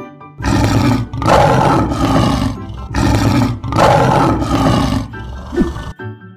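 Lion roaring sound effect: several long, loud roars one after another, stopping about six seconds in, over background music.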